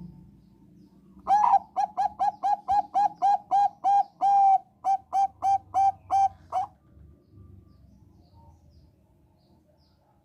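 Zebra dove of the Thai 'Bangkok' strain (perkutut bangkok) singing: a run of about seventeen short, clipped coos at roughly three a second, with one note held longer midway, stopping after about five seconds.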